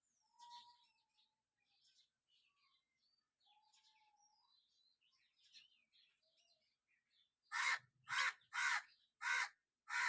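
A bird gives five loud, harsh calls about half a second apart near the end, over faint chirping of small birds.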